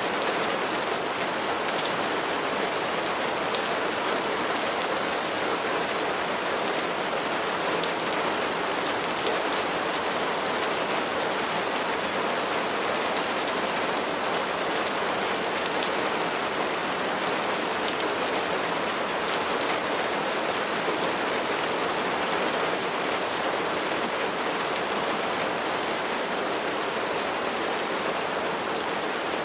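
Steady rain falling, with a dense, even hiss and many small individual drop ticks on top.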